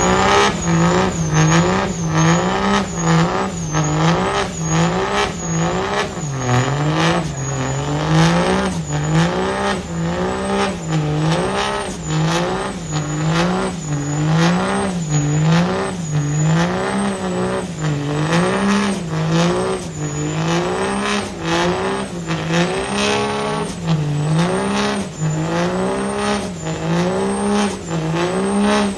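Truck engine held at high revs during a burnout, its revs swinging up and down about once a second without letup, with a sharp break at each dip.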